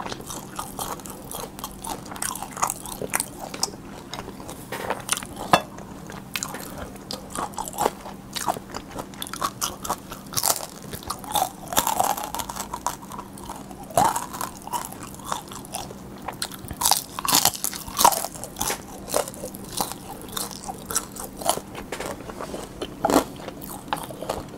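Close-miked eating: biting into and chewing a crispy pan-fried dumpling, with irregular crisp crunches and wet chewing sounds.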